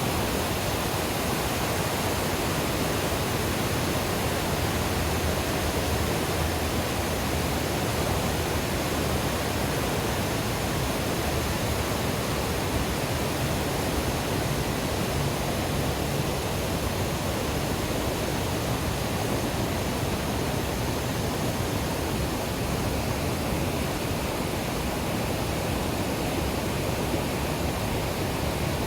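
Small waterfall on a creek, water pouring and splashing in a steady, unbroken rush.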